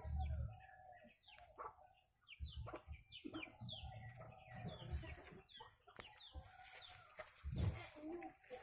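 Birds chirping in a rapid series of short, quickly falling notes, with a dull low bump about three-quarters of the way through.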